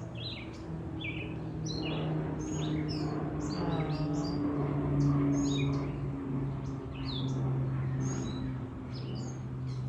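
Backyard birds chirping and calling, many short notes and quick downslurred calls in a steady stream, over a steady low hum.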